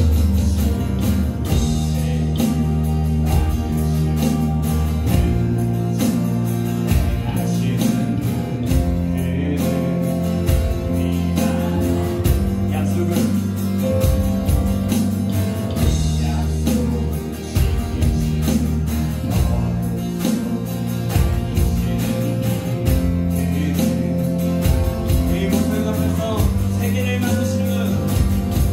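Live praise-band music: acoustic guitar, keyboard, bass guitar and electronic drums playing with a steady beat.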